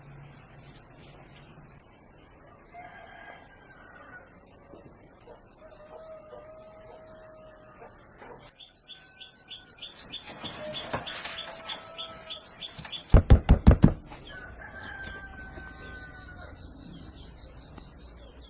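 Roosters crowing several times, long held calls, over a steady high whine of insects. A little after the middle comes a quick run of about six loud knocks.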